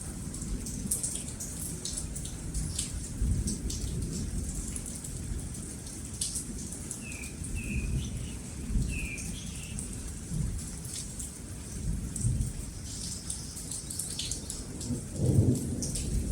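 Steady rain falling with thunder rumbling low, swelling now and again, loudest near the end. A few short bird chirps sound around the middle.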